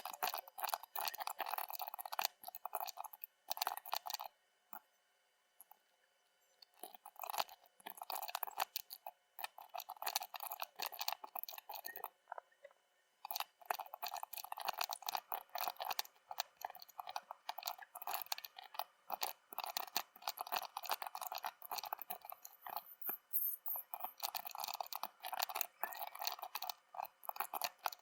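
Typing on an Epomaker Skyloong GK75 mechanical keyboard: rapid, dense key clicks in bursts, breaking off for about two seconds some five seconds in and briefly again about halfway through.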